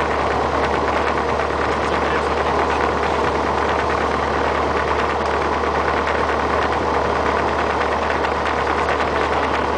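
Light aircraft piston engine running steadily at low power, heard from inside the cockpit as a constant drone with cabin noise.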